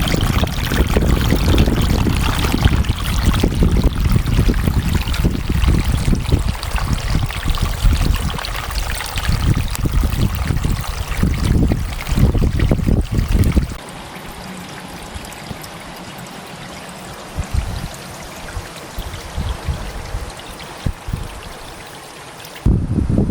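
Wind buffeting the microphone in uneven gusts, with a deep rumble. About two-thirds of the way in it drops abruptly to a quieter, steady rushing hiss with a few soft knocks.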